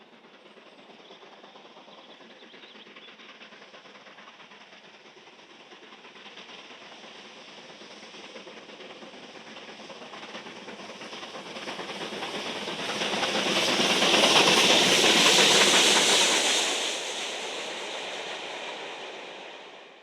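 Steam train approaching and passing close by: the sound builds slowly, is loudest about two-thirds of the way through, then falls away and cuts off suddenly at the end.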